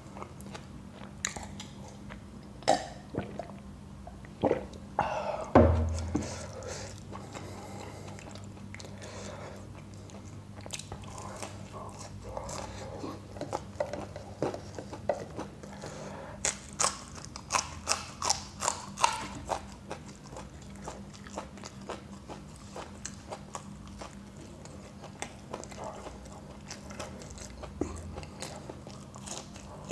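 Close-up eating sounds: biting into and chewing crisp fried samosa pastry and raw green chillies, with a run of crunches and wet mouth noises. One louder thump comes about six seconds in, and a faint steady low hum sits underneath.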